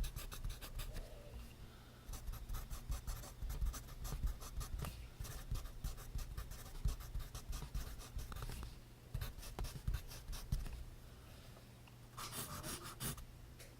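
Pencil writing on notebook paper: quick scratchy strokes in a run for about ten seconds, then thinning out, with a brief louder rustle near the end.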